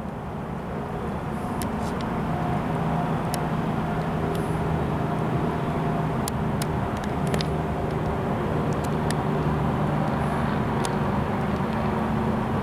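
Steady mechanical rumble with a low hum, like engine or road-traffic noise, with a few faint scattered clicks.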